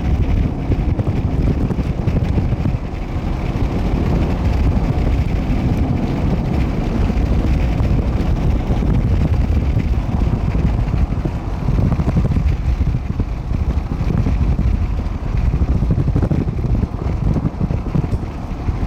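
Strong wind buffeting the microphone: a loud low rumble that rises and falls in gusts.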